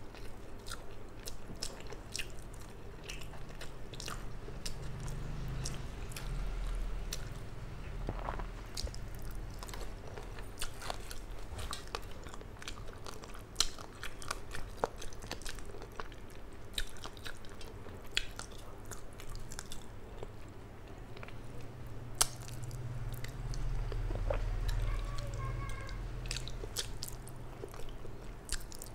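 Close-miked chewing of rice and hilsa fish eaten by hand, with many small wet clicks and lip smacks throughout.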